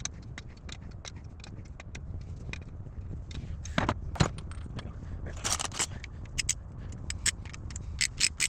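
Small metal parts and hand tools clicking, clinking and scraping against each other in irregular strokes, with a few louder scrapes in the middle, over a steady low hum.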